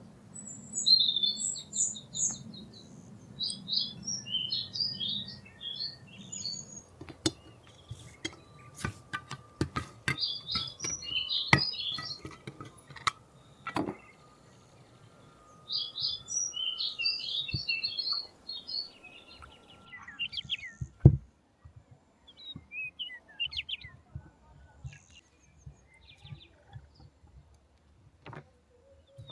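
Songbirds singing in repeated bursts of quick chirping phrases. Scattered sharp clicks and knocks come in between, with one louder knock about two-thirds of the way through.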